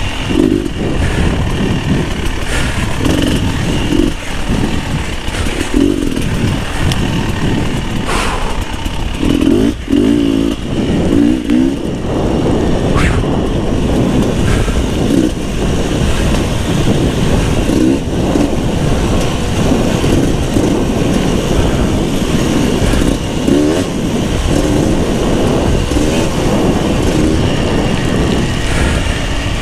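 Beta 300 RR two-stroke enduro motorcycle engine on a trail ride, the throttle opened and closed over and over so the revs surge up and drop back every second or two.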